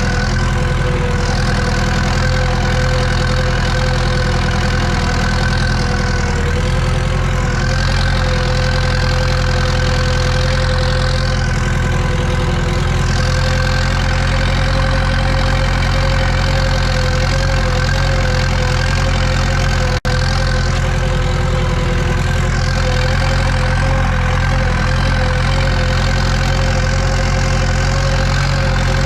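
Tractor diesel engine running steadily under load while cultivating, heard from inside the cab, with a constant whine over the engine drone. The sound drops out for an instant about twenty seconds in.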